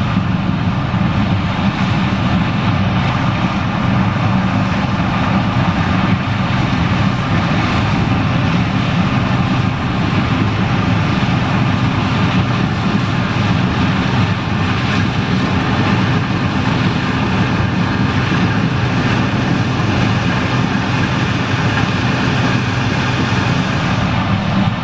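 John Deere 9870STS combine running steadily while harvesting corn: a loud, even engine and machinery drone with no change in pitch or speed.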